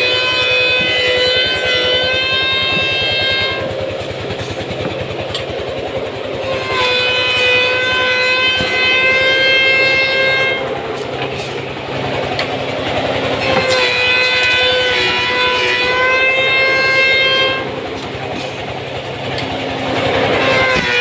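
Automatic woodworking machine shaping wooden handles, running with a steady fast chatter. A pitched whine with several overtones sounds for about three and a half seconds with each working pass, returning roughly every seven seconds, three times over and again near the end.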